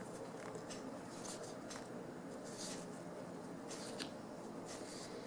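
Faint, irregular scratching and rustling of vinyl upholstery being handled and marked with a pencil.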